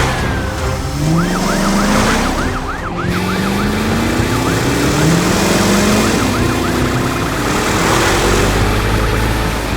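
Cartoon siren sound effect wailing in quick up-and-down sweeps, about four a second, starting about a second in and thinning out after a few seconds. Under it, low tones rise again and again over a steady low rumble.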